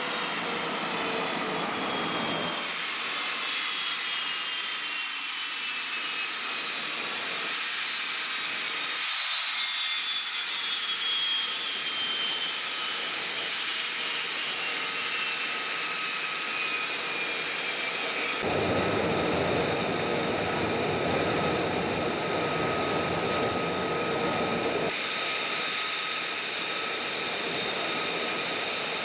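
Jet fighter engine whining, with several high tones slowly falling in pitch over a steady rush. The sound changes abruptly a few times, and for several seconds from about two-thirds of the way in it is louder, with a deeper rumble added.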